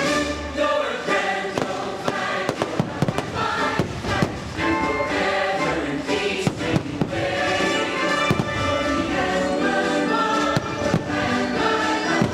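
Patriotic fireworks-show soundtrack of choir and orchestra singing and playing, with the bangs and pops of fireworks bursts scattered over it, thickest in the middle.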